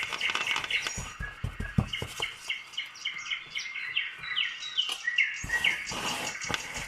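A bird chirping a quick run of short, falling notes. A few soft knocks come just before the chirping starts.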